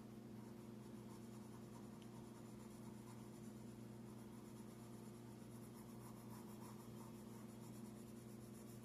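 Faint scratching of a drawing tool on paper as someone draws, under a steady low electrical hum.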